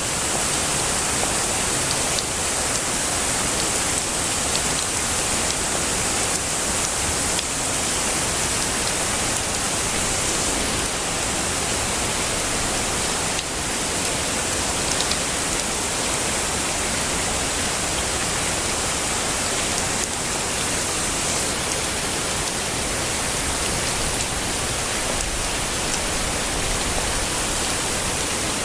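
Heavy rain falling steadily: an even, unbroken hiss with faint scattered ticks of individual drops.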